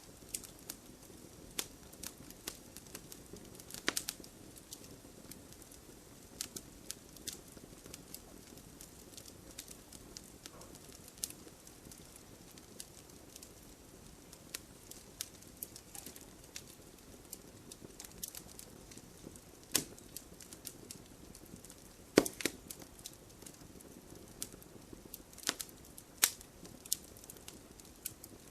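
Wood fire burning in a fireplace: irregular crackles and sharp pops of the burning logs over a low, steady rush of flame. The loudest pop comes about three quarters of the way through.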